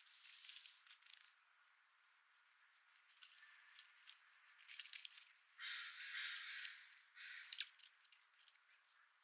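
Harsh, raspy caw-like bird calls in short bouts, one of the longest about two thirds of the way through, with scattered sharp clicks and a few faint high chirps between them.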